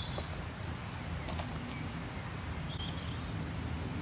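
Rural outdoor ambience: a small bird giving quick runs of short, high, evenly repeated chirps, one in the first half and another near the end, over a steady low rumble.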